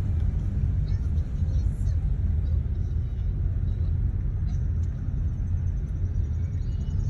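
Steady low road rumble of a car, heard from inside the cabin while driving.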